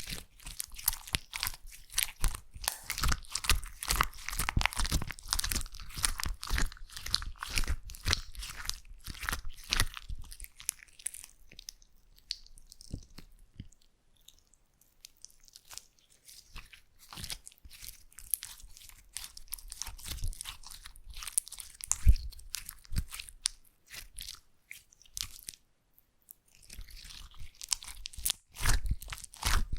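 Slime being squeezed and kneaded by hand close to the microphone, making dense, rapid crackling and popping. The sound is busiest in the first third and again near the end, and sparser in the middle, where one sharp, loud pop stands out about two-thirds of the way in.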